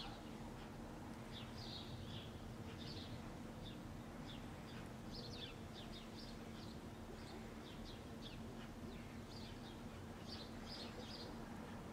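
Small birds chirping, with short high calls scattered through, over a faint steady low hum.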